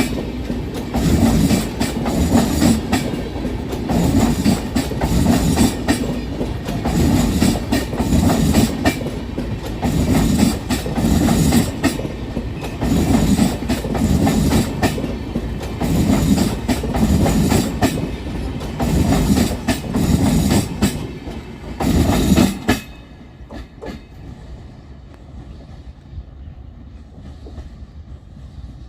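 LHB passenger coaches of an express train running through a station at speed: a loud, rhythmic clickety-clack of wheels over rail joints, pulsing coach after coach. The clatter cuts off sharply about 23 seconds in, leaving a low, quiet rumble.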